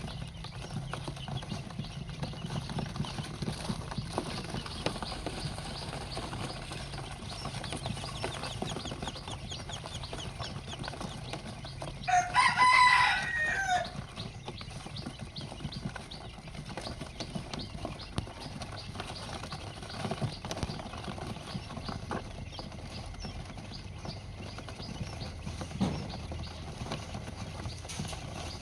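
A rooster crows once, loudly, about twelve seconds in. Under it, baby birds cheep continuously, and a short sharp sound comes near the end.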